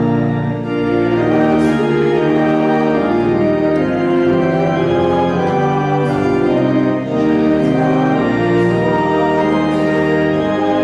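Organ playing slow, held chords that change about once a second.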